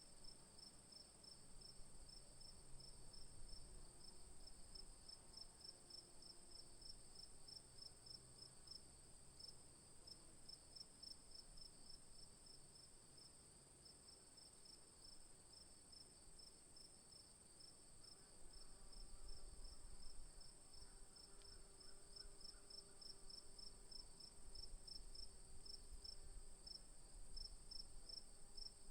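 Faint insect chorus of crickets: one high, steady trill and another chirping in a quick, even rhythm of several chirps a second.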